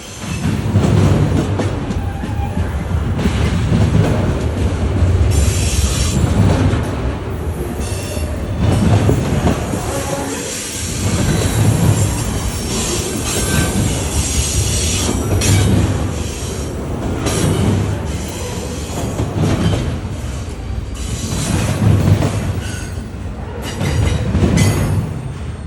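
Train rolling past, railcars rumbling with a low swell about every two seconds as the wheels pass, and stretches of high-pitched wheel squeal.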